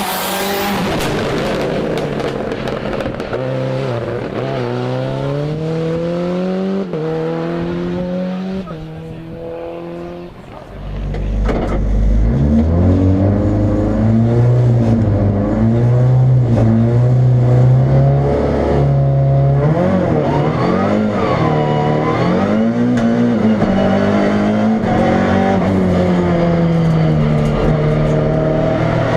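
Fiat Uno Turbo 1.4-litre turbocharged four-cylinder race engine at hard throttle, its pitch climbing and dropping again and again as the car accelerates, shifts and brakes through the slalom. The sound grows louder about eleven seconds in, then rises and falls with the revs through the corners.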